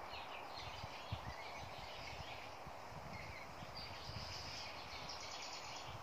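Outdoor garden ambience: birds chirping with short trills over a steady background hiss, with irregular low bumps on the microphone.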